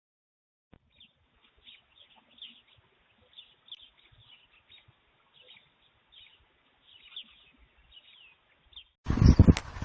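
Small birds chirping faintly, a long string of short, quick chirps. Near the end a much louder stretch of knocks and thumps cuts in suddenly.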